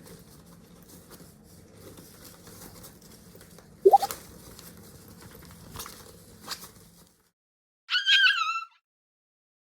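Soft rustling and scratching of a fabric pet carry bag as a toy poodle puppy moves in it, with one short rising squeak about four seconds in. After a cut, a brief, loud, wavering high tone sounds near the end.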